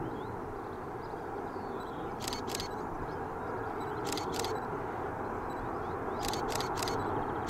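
A train rolling past on the line with a steady rumble that slowly grows louder, and sharp clicks in twos and threes about every two seconds.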